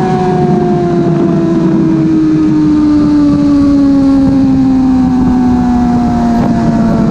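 Suzuki GSX-R 1000 K5's inline-four engine through a slip-on exhaust, heard onboard over wind rush, its pitch falling slowly and evenly as the revs wind down with the bike slowing.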